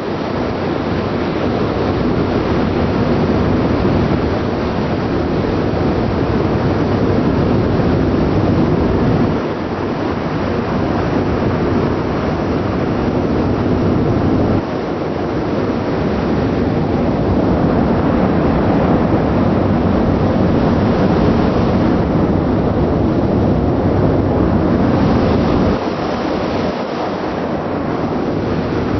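Steady rushing of wind and ship noise at sea, with wind buffeting the microphone; the level steps down abruptly a few times.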